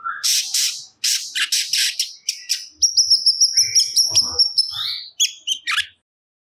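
Cucak cungkok singing loudly in quick, varied phrases of sharp chirps and chatter, with a fast rippling trill in the middle; the song stops abruptly about six seconds in.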